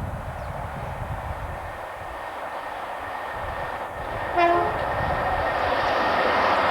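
An approaching train on a main line, its rushing noise growing louder, with one short horn blast about four and a half seconds in.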